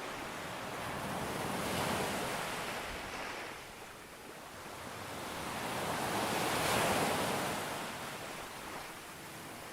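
Sea waves breaking on a beach and washing up the shore. Two waves swell and fade, the first peaking about two seconds in and the louder second one about seven seconds in.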